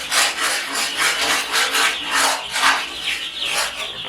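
Irregular scraping and rubbing strokes, about two to three a second, as a tray pan is dragged out of a chick brooder.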